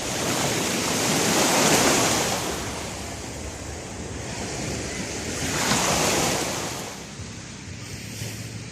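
Ocean surf washing on a beach: two swells of rushing water noise about four seconds apart, each rising and then falling away, the first the louder.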